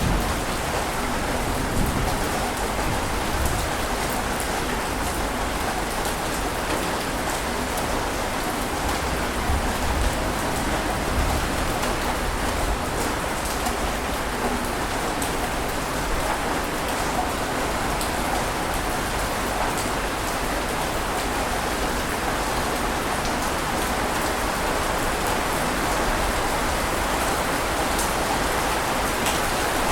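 Steady rushing water noise, even in level with no rise and fall of separate swells, with faint scattered ticks on top.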